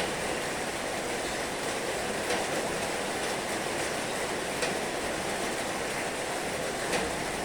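Heavy rain falling steadily, a dense even hiss with a few sharper drop hits about every two seconds.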